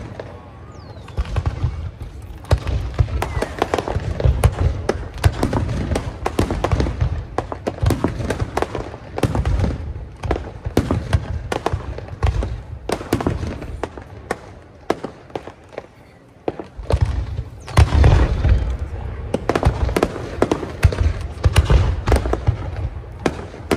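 Fireworks display: a rapid run of sharp bangs and crackling shell bursts over deep booms, easing off briefly about two-thirds of the way through before a loud flurry of bursts resumes.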